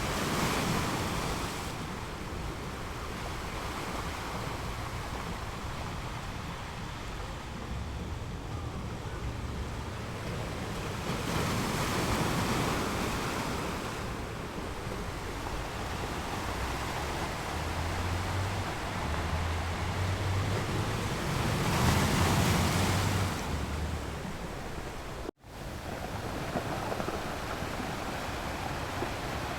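Ocean waves rolling in and breaking on a shore, a surge of surf about every ten seconds over a steady wash, with low wind rumble. Near the end the sound cuts out for an instant and comes back as a steadier, more even hiss.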